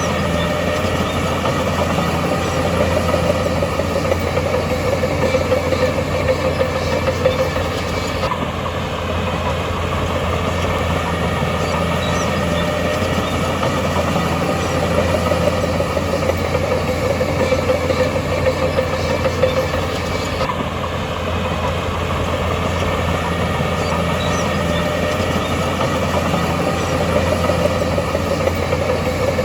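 Heavy diesel engine of an earthmoving machine running steadily with a deep hum.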